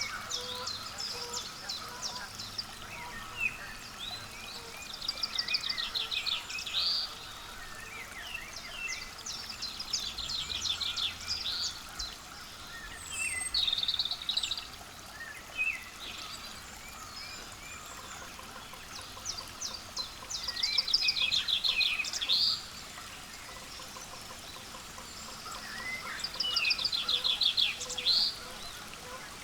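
A songbird repeating a short, rapid trilled song every few seconds over a steady outdoor hiss, with a few scattered chirps between songs.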